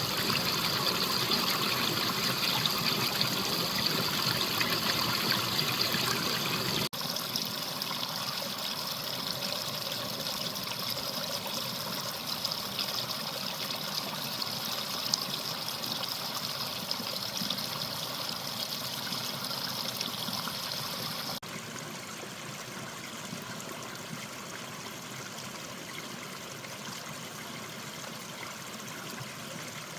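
Mountain valley stream flowing steadily, an even rush of water. It cuts abruptly twice, each time to a quieter stretch of the same kind of water sound.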